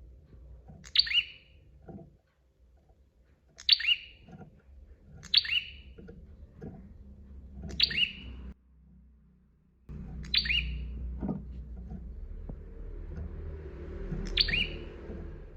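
A prinia (prenjak) repeating a short, sharp chirping call six times, each a quick note falling in pitch, about every two seconds, over a faint low background rumble.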